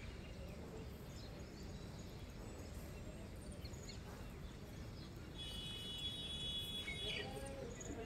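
Steady low background noise with scattered small bird chirps. A thin, steady high whine sounds for about two seconds past the middle.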